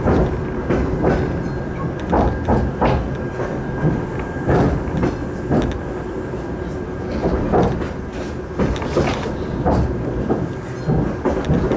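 Suburban passenger train running, heard from inside the carriage: a steady rumble with the wheels clattering over rail joints in repeated groups of knocks, and a faint steady whine.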